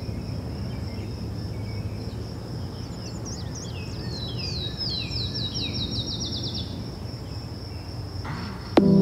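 Outdoor ambience: a songbird sings a series of short downslurred chirps that speed up as they go, over a steady high-pitched insect-like whine and low wind noise. Music comes in near the end.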